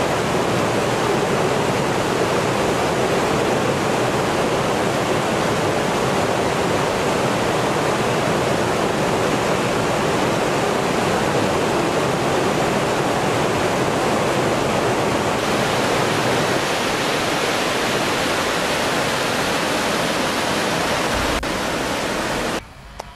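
Mountain torrent rushing over rocks: a steady, loud wash of falling water. It drops away briefly just before the end.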